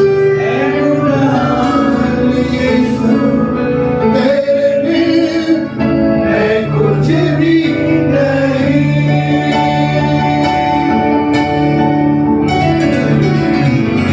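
Hindi Christian worship song sung by a male voice over acoustic guitar and keyboard-style accompaniment, with sustained chords.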